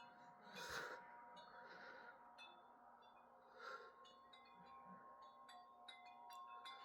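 Wind chimes tinkling faintly in the wind, with many short, high, ringing notes struck at irregular moments. There are two brief rushes of noise, about a second in and near four seconds in.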